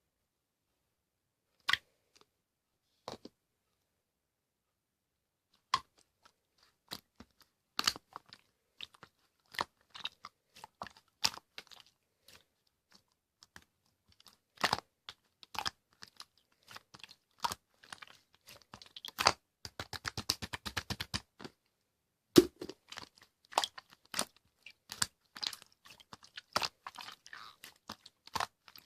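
Slime being handled by hand, giving sharp wet clicks and pops. They come sparsely at first, then more often, with a fast crackling run of pops about twenty seconds in.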